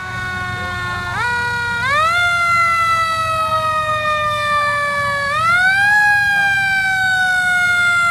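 Fire engine siren wailing. It sweeps up quickly twice, about a second in and again about five seconds in, and slides slowly down in pitch after each rise, over a steady low rumble.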